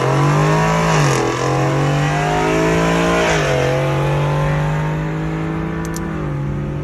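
Car engine accelerating hard from a launch, rising in pitch through the gears with two upshifts, then slowly getting quieter as it pulls away.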